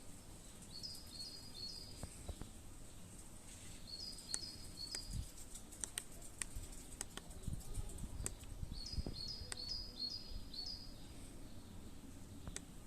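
A songbird singing short phrases of three or four quick high notes, repeated every few seconds, with scattered sharp clicks and a few low bumps.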